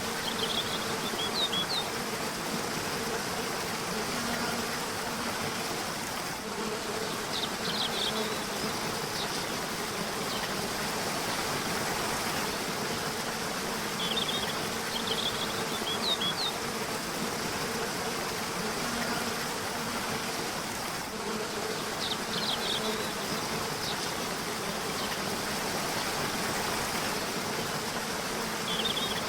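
A river runs with a steady rushing. A bird gives a short burst of high chirps about every seven seconds. A low buzzing hum comes and goes beneath.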